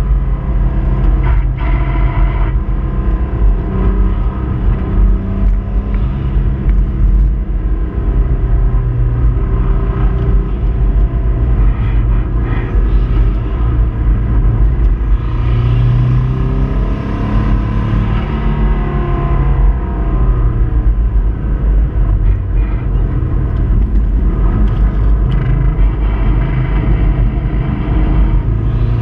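Subaru Impreza 2.5RS flat-four engine running hard under load, its pitch rising and falling as it revs, with the noise of a failing connecting-rod bearing.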